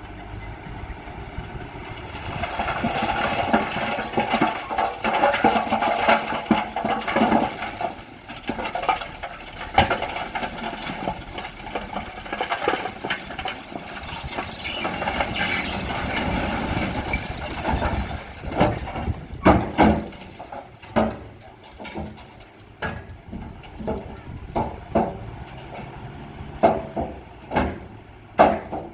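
Bulldozer working under load, its engine running amid a steady scraping and grinding of rock. In the last third this gives way to a string of sharp knocks and clanks.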